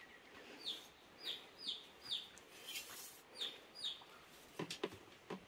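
Faint bird chirping: a string of short, falling chirps about every half second, with a few light clicks near the end.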